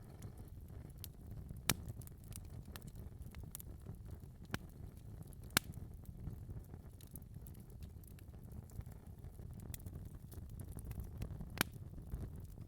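Wood fire in a fireplace crackling: a steady low rumble of the flames with irregular sharp pops and snaps, the loudest about two seconds in, near the middle and near the end.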